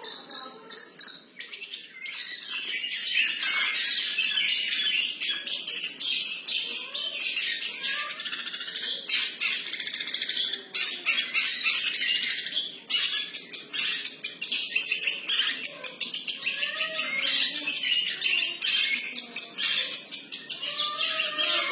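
Long-tailed shrike (cendet) singing a varied, free-style song: a continuous run of rapid, high chirps and squawky notes.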